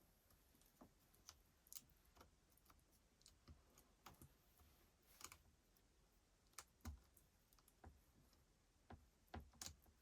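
Faint, irregular light clicks and knocks, like small tool parts and hand tools being handled on a workbench, with a few slightly louder taps near the end.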